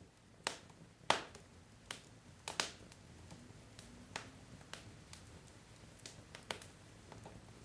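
Wood fire crackling: burning logs giving irregular sharp pops and snaps, a few louder ones among many small ticks.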